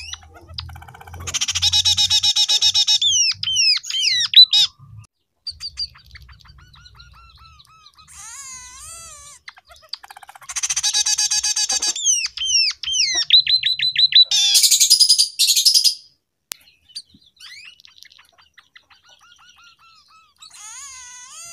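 A scaly-breasted munia (emprit peking) sings a canary-style song learned from canaries. It gives two loud runs of rapid trills and gliding whistles, separated by quieter twittering. The second run ends in a fast string of down-slurred notes and then a high buzzy trill.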